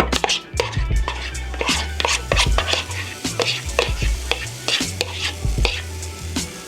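Pancakes frying in a buttered pan, with a light sizzle and a spatula repeatedly scraping and clicking against the pan.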